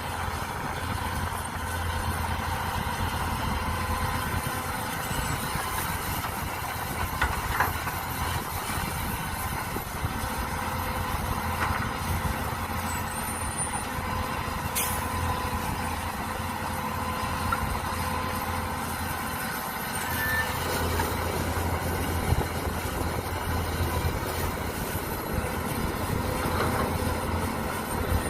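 Mini excavator engine running steadily while working, with a low hum throughout and a few short, sharp knocks scattered through it.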